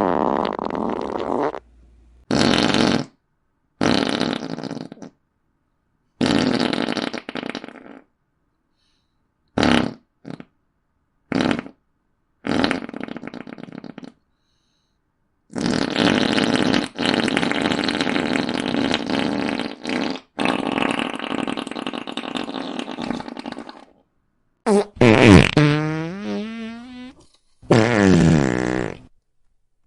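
A rapid series of fart sound effects with short silences between them, from brief quick pops to long sputtering ones lasting several seconds. One near the end slides in pitch.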